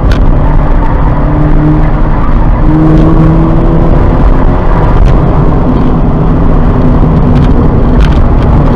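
2017 Subaru BRZ's flat-four engine running at a steady pitch through a corner at about 50 mph, heard loudly from inside the cabin over dense road and wind noise. The engine note rises slightly about three seconds in.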